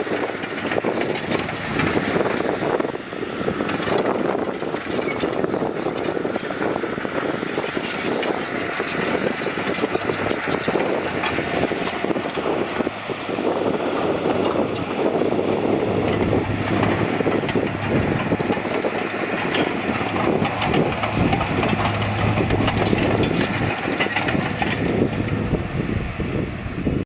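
Heavy diesel earthmoving machinery running under load, with a continuous dense rattle and clatter over the engine; a steady low hum joins about halfway through.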